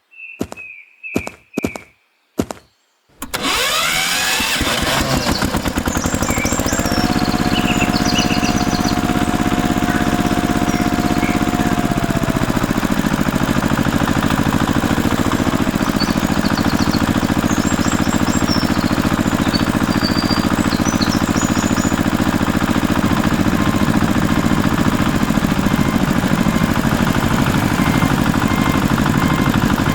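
Mini tractor's small engine: a few sharp knocks, then the engine starts abruptly about three seconds in and keeps running steadily.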